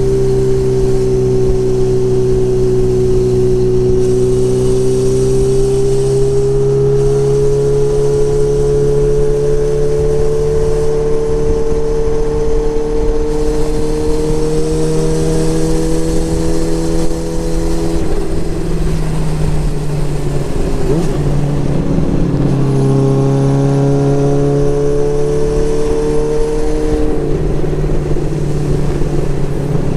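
Motorcycle engine running on the road at a steady pace, its note slowly climbing in pitch. Past the middle the steady note breaks up and wavers for about four seconds, then settles back into an even drone.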